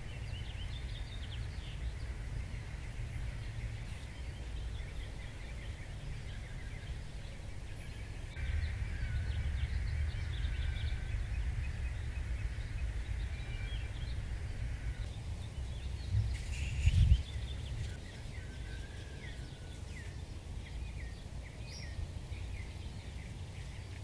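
Small birds chirping in short calls over a steady low rumble of outdoor background noise, with a brief louder thud about seventeen seconds in.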